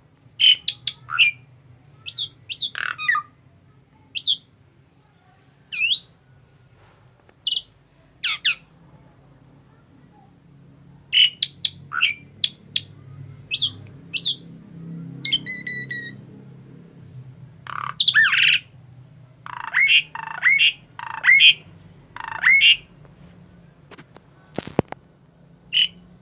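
Asian pied starling (jalak suren) calling in irregular bursts of short, sharp chirps and squawks, with one more drawn-out note about midway and a single click near the end.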